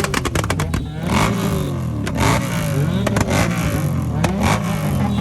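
Motorcycle engines with modified exhausts revving over and over, the pitch climbing and dropping about once a second. There are several sharp cracks in the first second.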